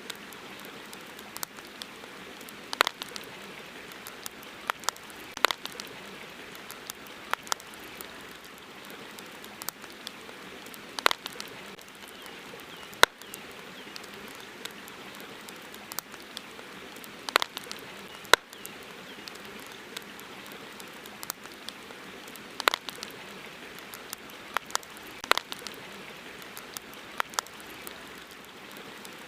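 Campfire crackling: irregular sharp pops and snaps, a few of them much louder, over a steady hiss.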